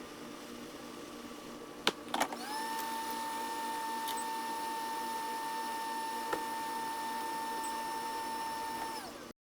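Two clicks, then a small electric motor spins up to a steady whine that holds for about six seconds and winds down near the end.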